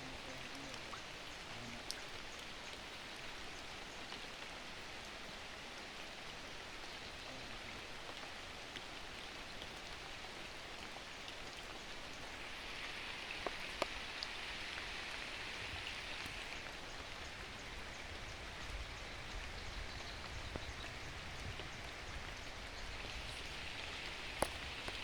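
Steady rain falling, with a few sharp drop ticks standing out, about two seconds in, midway through and near the end.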